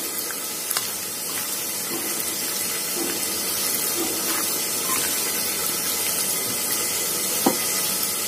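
Steady sizzle of tomatoes frying in oil on the stove. A couple of light clinks of a spoon against a steel bowl come about a second in and near the end.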